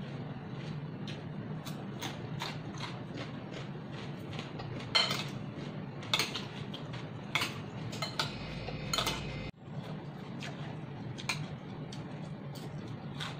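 Close-up chewing of crisp raw cucumber, apple and red bell pepper, a run of short crunches. From about five to nine seconds in, metal chopsticks and a spoon clink and scrape against a glass salad bowl as the salad is stirred. A steady low hum runs underneath.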